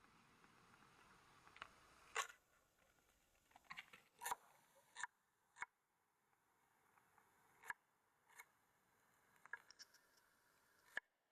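Near silence broken by about a dozen faint, sharp clicks and taps at irregular intervals. A faint hiss fades out about four seconds in.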